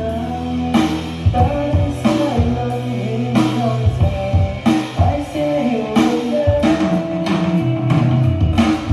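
A song with singing, guitar and drum kit, played back through a Bose L1 Compact PA speaker set at half volume and picked up in the room.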